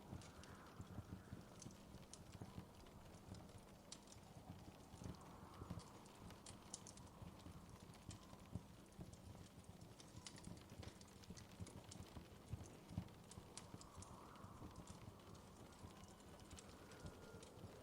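Wood fire crackling softly: irregular pops and snaps over a low, steady rumble.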